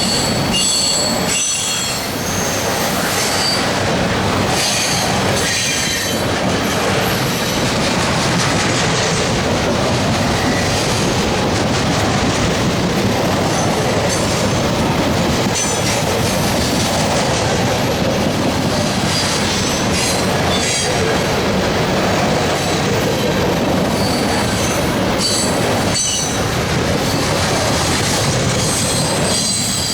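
Freight cars of a loaded trash train rolling past at speed, a steady rumble of wheels on rail with clicking over the rail joints. High-pitched wheel squeal rises a few times, near the start, about midway and again near the end.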